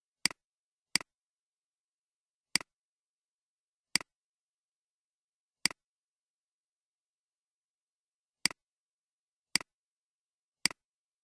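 Computer mouse clicking: eight single sharp clicks, spaced irregularly a second or more apart, with dead silence between them.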